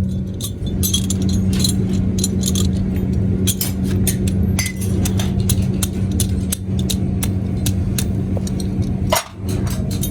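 Factory machinery humming steadily, with frequent light clinks and clicks of small metal parts being handled; the sound dips briefly about nine seconds in.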